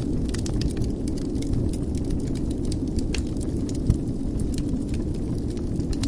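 Wood fire crackling in a fireplace: a steady low rumble of flames under scattered sharp crackles and pops, with one louder pop about four seconds in.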